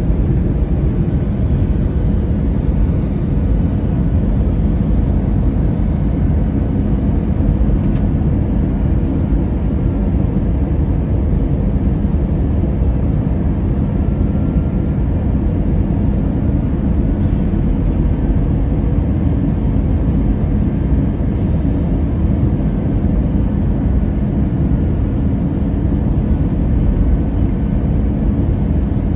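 Airliner cabin noise during landing: a steady low rumble of engines and airflow, with a faint higher whine above it.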